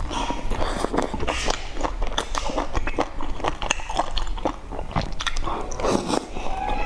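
A person biting into and chewing a sauce-soaked fried roll, making irregular clicking mouth noises.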